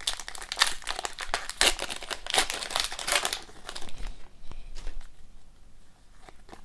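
Crinkling and rustling of a trading-card pack wrapper and cards being handled, busy for the first three seconds or so, then lighter and sparser.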